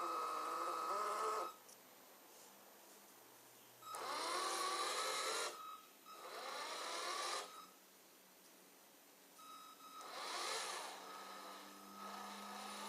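Small electric drive motor and gearing of a Scania 6x6 truck whining in four short runs separated by pauses. Each run rises in pitch as the motor spins up, with no deep engine rumble underneath.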